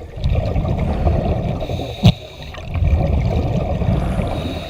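Water sloshing and gurgling with a low rumble, and one sharp knock about two seconds in.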